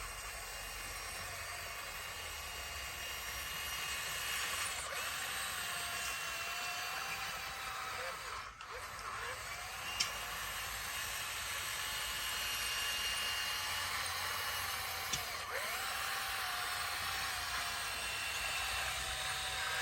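Bulldozer working: a high mechanical whine with overtones that dips and rises in pitch every few seconds as the machine works, with a couple of sharp clicks.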